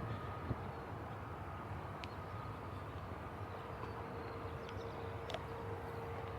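Steady low engine rumble with a faint high whine, plus a few light clicks.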